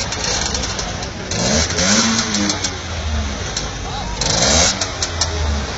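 An engine revved twice, its pitch rising and falling each time, over a steady low running sound. It is likely a motorcycle's.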